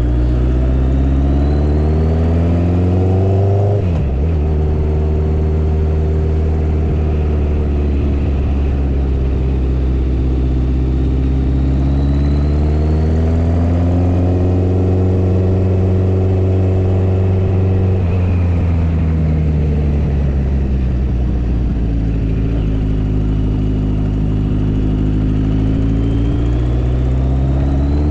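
Motorcycle engine running under way, its pitch climbing, then dropping sharply about four seconds in as a gear changes, then easing down and rising again twice as the rider slows and accelerates.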